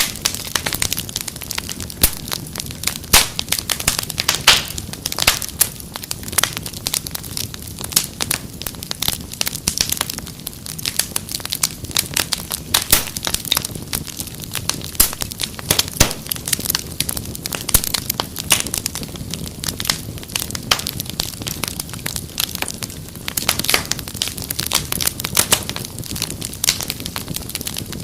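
Wood fire crackling in a fireplace: dense, irregular pops and snaps over a low steady rumble of burning.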